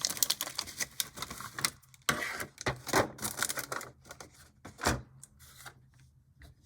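HO-scale plastic model passenger cars and their packaging being handled: a string of light clicks and taps, with a denser rustle about two seconds in and a sharper knock near five seconds.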